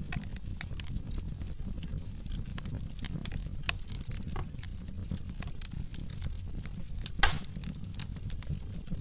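Log fire in a fireplace crackling: many small sharp pops over a low steady rumble of the flames, with one louder pop about three quarters of the way through.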